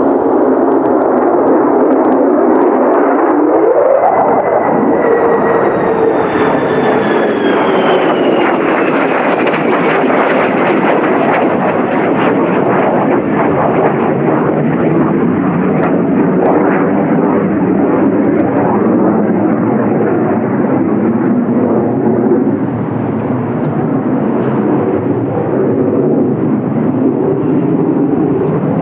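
F-35B Lightning's single turbofan jet engine, loud and continuous as the jet flies by. A few seconds in, a whine glides up and then two high whining tones fall slowly in pitch as it passes, followed by a steady rumble.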